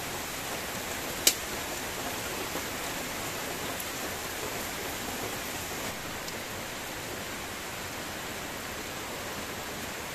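Steady hiss of rain, with a single sharp click about a second in.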